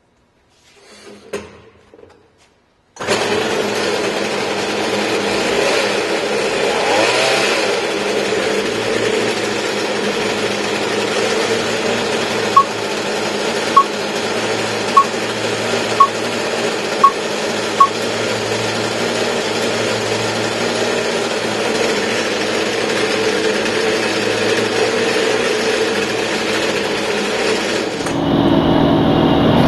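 Concrete-cutting saw with a diamond blade running steadily: a loud, steady machine noise that starts suddenly about three seconds in and cuts off near the end. Six short high beeps sound in the middle.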